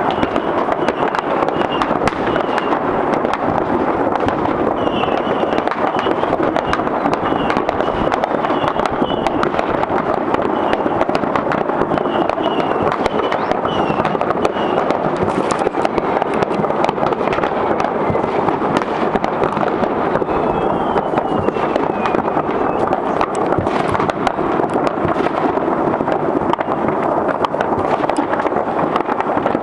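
Many fireworks going off all over a city at once: a dense, unbroken crackle of bangs and pops, with a high falling whistle about twenty seconds in.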